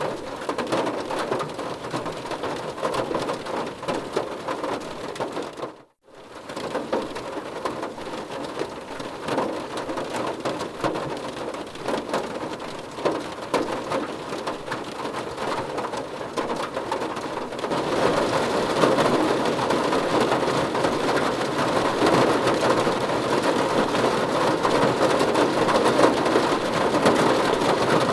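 Heavy rain falling steadily as a dense hiss of drops. It cuts out to near silence for a moment about six seconds in, then comes back and grows heavier and louder about two-thirds of the way through.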